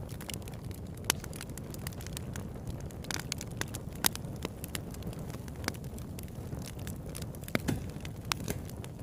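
Wood campfire burning: irregular crackles and sharp pops, the loudest about four seconds in and several more close together near the end, over a steady low rumble.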